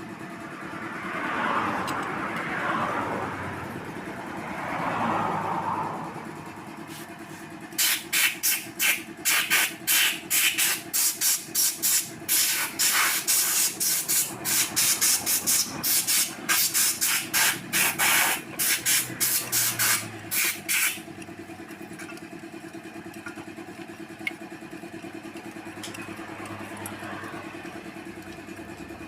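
Rapid short hissing bursts, about two or three a second for some thirteen seconds, over a steady hum. Two softer hissing swells come before them.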